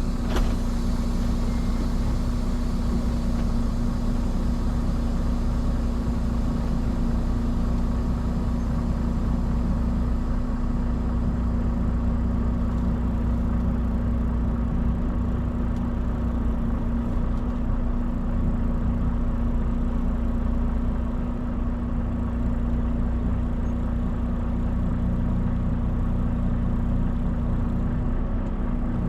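Semi truck's diesel engine running steadily at low speed, a constant low rumble with a steady hum over it.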